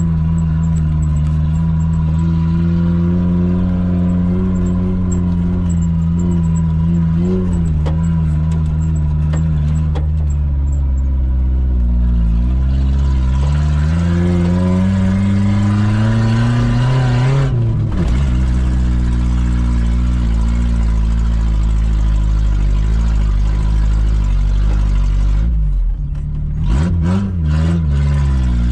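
Suzuki Samurai 4x4's engine pulling off road, its revs rising and falling with the throttle. About two-thirds of the way through the revs climb steadily, then drop suddenly, and they dip and swing again near the end.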